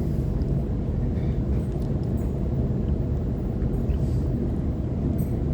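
Cabin noise of a Sydney Trains Waratah electric multiple unit running: a steady low rumble with a faint steady hum and a few light clicks.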